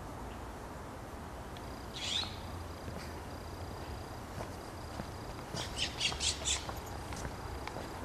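Bird calls in the woods: one harsh call about two seconds in, then a quick run of about five harsh, squawking notes near the six-second mark.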